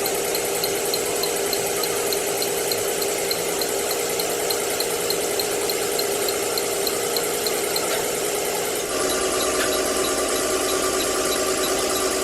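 A motor-driven workshop machine running steadily, with a light regular tick about three times a second. Its note changes about nine seconds in, becoming deeper and fuller.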